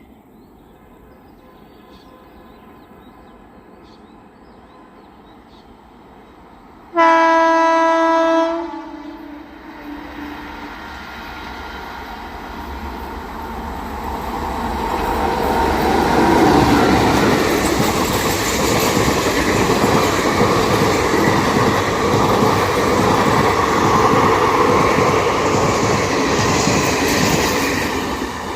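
An Indian Railways WAP-4 electric locomotive sounds its horn in one loud blast of about a second and a half. Then the express train approaches and passes close by, its wheels rumbling and clattering over the rail joints, growing louder and staying loud through the end.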